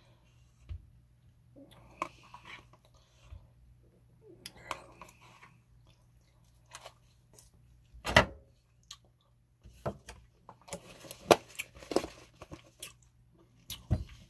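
Close-miked mouth sounds of a person eating: chewing with wet clicks and smacks, sparse at first and coming thick and fast in the last few seconds, with one loud smack about eight seconds in.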